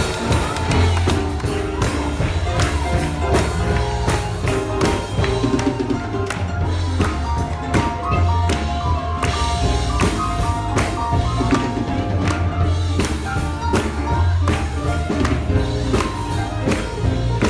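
Live gospel music from a church band: a steady bass line, held keyboard notes and a regular percussive beat.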